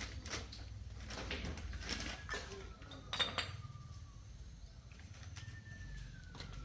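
Metal tools and parts clinking and knocking as they are handled, with a series of short knocks and one sharp clink about three seconds in.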